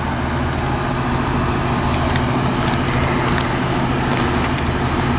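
A motor vehicle's engine idling, a steady low hum that holds the same pitch throughout.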